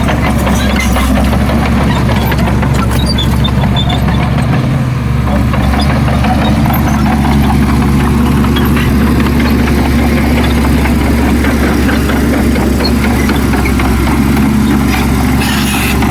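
Heavy diesel engine of earthmoving machinery running steadily, its low note holding an even pitch and level.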